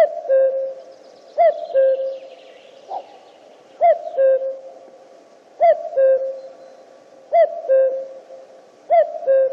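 Common cuckoo calling its two-note "cu-coo", a higher note falling to a lower one, repeated about six times at intervals of roughly one and a half to two seconds. This is the male's advertising call.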